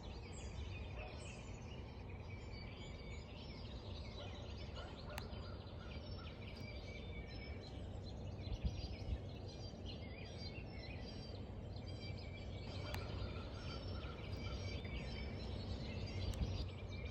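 A chorus of many birds chirping and trilling, overlapping continuously, over a steady low rumble. Two brief sharp clicks sound about halfway through.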